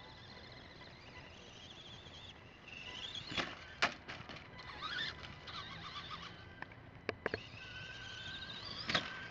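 High whine of a running nitro RC car engine, rising in pitch a few seconds in and holding steady later on, with several sharp knocks along the way.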